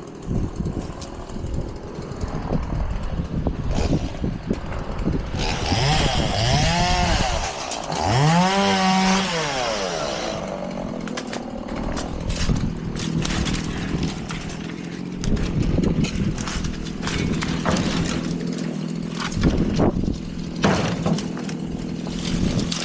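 Chainsaw running, mostly at a steady idle, revved up and back down twice between about six and ten seconds in. Sharp knocks and cracks of wood and brush are scattered throughout.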